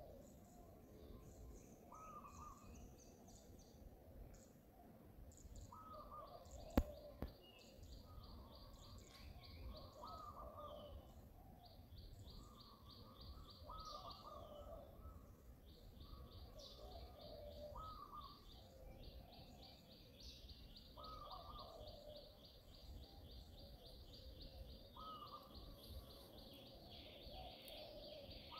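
Birds calling: one repeats a short note every two to four seconds over long, fast, high-pitched trills. A single sharp knock about seven seconds in is the loudest sound.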